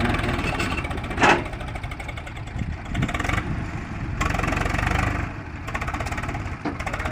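Tractor diesel engine running, with a loud short sharp sound about a second in and a few smaller ones later.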